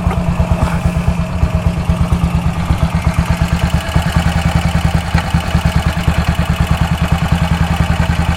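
1956 BSA Gold Star DB34's 500 cc single-cylinder engine idling with an even, rapid beat. Somewhere in its running is a knock from the primary drive side, which the owners suspect comes from the clutch.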